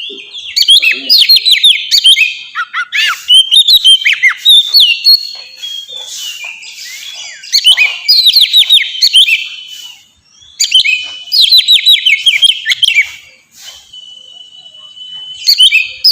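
Oriental magpie-robin (kacer) singing in full, clear phrases: bursts of rapid, high, falling whistled notes, several phrases with short breaks between them, and a steady held whistle shortly before a last phrase near the end.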